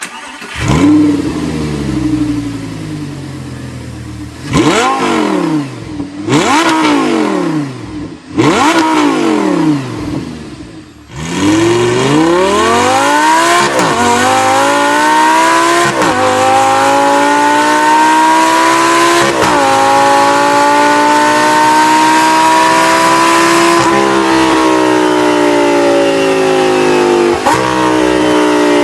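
Lamborghini Gallardo V10 on its stock exhaust. It is revved sharply several times while standing, then pulls hard through several gears, the pitch climbing and dropping at each quick upshift.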